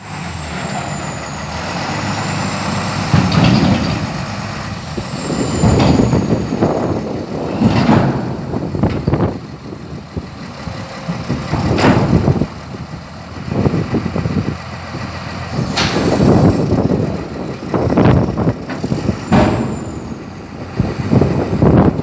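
Truck door handle being worked over and over, with a sharp clack or clunk every two to four seconds.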